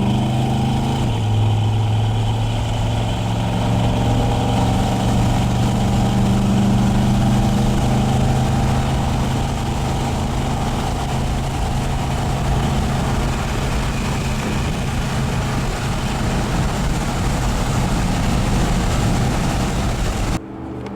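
Ford 302 V8 with full-length headers and dual exhaust running steadily, its low note stepping down slightly about a second in. The sound cuts out just before the end.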